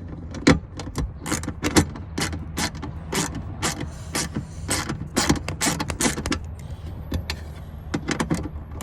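Hand ratchet wrench clicking in quick, irregular strokes, a few clicks a second, as 10 mm bolts on the fuel pump access cover are worked loose.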